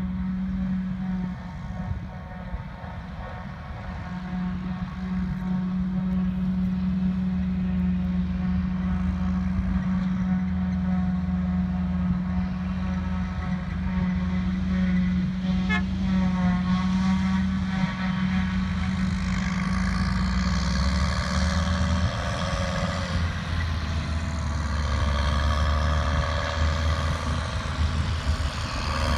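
Heavy diesel farm machinery at work on a grass silage harvest, running steadily with a deep hum. In the last third a higher whine joins and the sound grows louder.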